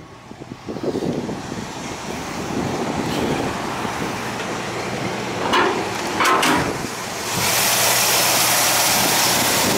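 Rebuilt Chevy 350 small-block V8 idling steadily, with two short knocks a little past halfway. From about seven seconds in the engine is heard louder and with more hiss as the open engine bay is reached.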